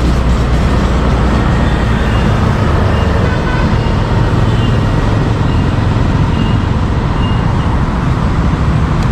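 Motorbike engine running and steady road noise while riding through city traffic, with a few faint short tones from the surrounding traffic.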